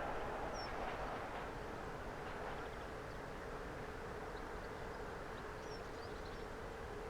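A passing train fading into the distance as it runs away down the line, its steady rumble slowly dying down, with a few short bird chirps.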